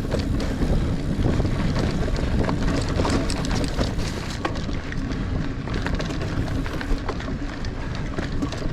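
Niner Air 9 RDO 29er mountain bike ridden over sandy singletrack: steady tyre and wind noise with many small clicks and rattles from the bike throughout.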